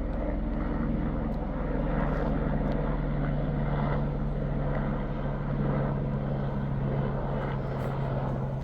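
Small propeller aircraft engine droning steadily overhead.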